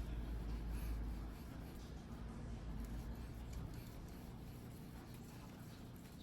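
Faint scraping and rubbing of a steel knife blade worked by hand on a whetstone, over a low hum.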